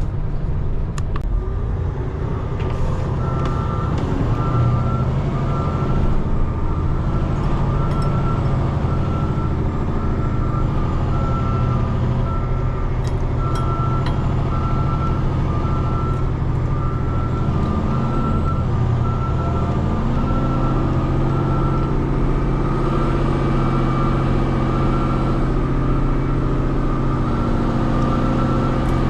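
Diesel dump truck engine running steadily, with a reversing alarm beeping about once a second from a few seconds in. About two-thirds of the way through, the engine note rises and fills out.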